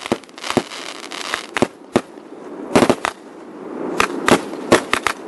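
Fireworks going off: a rapid, irregular series of sharp bangs, with a dense crackle building in the second half.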